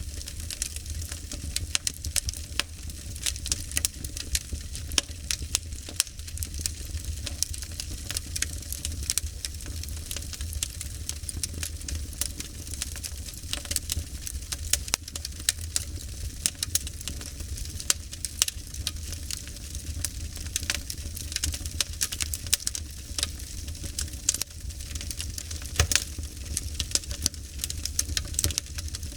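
Wood fire crackling, with dense irregular pops and snaps over a steady low rumble.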